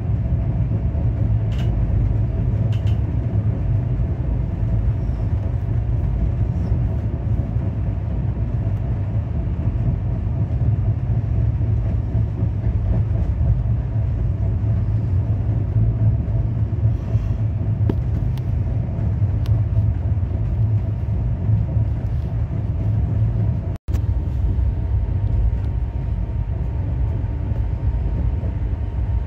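Gorakhpur–Ahmedabad Express passenger coach running along the track, a steady low rumble heard from inside the coach through the closed window. The sound cuts out for an instant about three-quarters of the way through.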